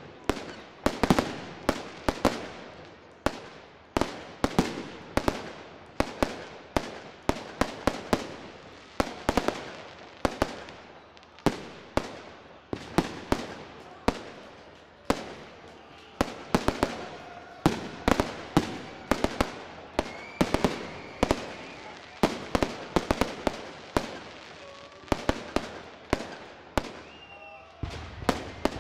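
Fireworks display: an irregular, rapid string of bangs from shells bursting in the sky, often in quick clusters, each with a short echoing tail.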